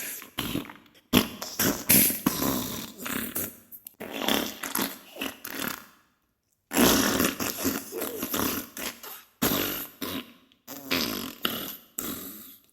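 Diarrhea sound effect: fart bursts one after another, with a brief silent break about six seconds in.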